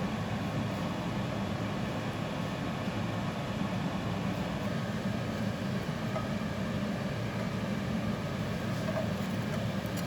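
A steady low hum from a running fan, without pauses or changes.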